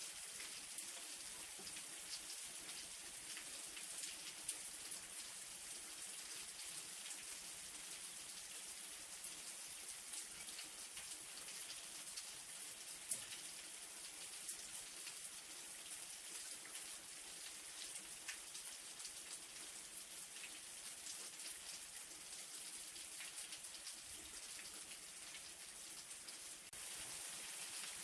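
Light rain falling steadily: an even hiss with scattered drops ticking, one sharper drop about halfway through.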